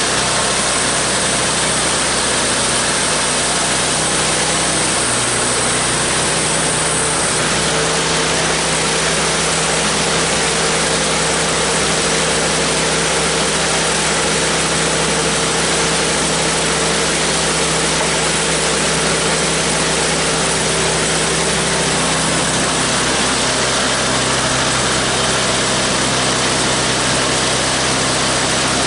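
Homemade bandsaw sawmill's engine running steadily under load as the band blade cuts through a log.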